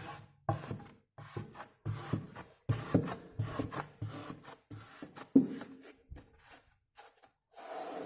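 A spatula scraping excess wallpaper glue off freshly laid fiberglass wallpaper in short, irregular strokes. A steadier rubbing starts near the end.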